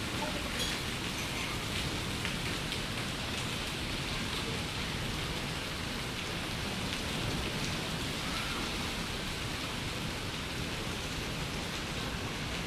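Heavy rain pouring steadily, with a few faint ticks of drops or hailstones striking.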